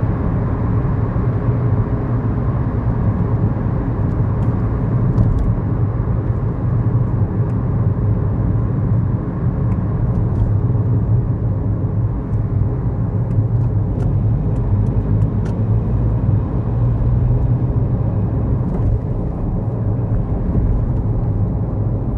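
Kia Morning (2011) 999 cc four-cylinder SOHC engine running steadily while driving, with road noise, heard from inside the cabin.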